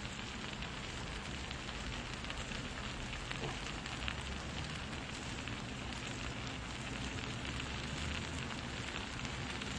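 Gochujang-marinated pork and vegetables sizzling steadily on a hot griddle pan, a dense crackling hiss.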